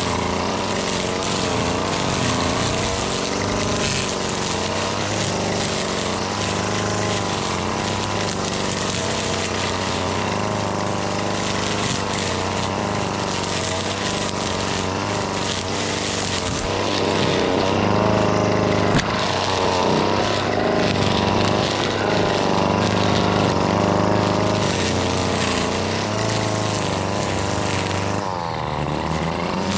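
Husqvarna 525L two-stroke string trimmer running while cutting weeds, its engine pitch rising and falling as the throttle is worked, louder in the middle stretch.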